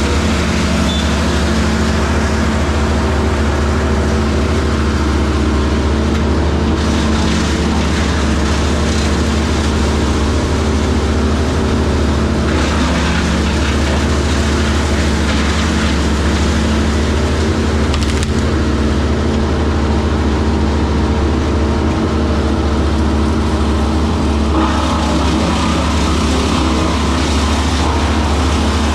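Heavy equipment engine running steadily at a constant speed. The higher noise over it shifts in strength a few times.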